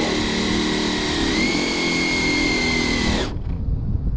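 Radio-controlled drag car's electric motor running steadily with a high whine that steps up slightly in pitch about a second in, then cuts off abruptly about three seconds in.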